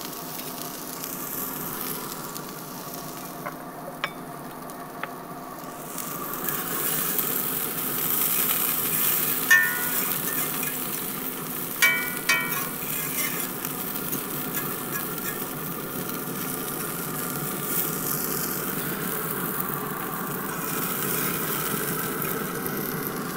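Chopped onion sizzling in olive oil in a hot cast iron skillet, with a few clinks and scrapes of a metal fork stirring it against the pan partway through.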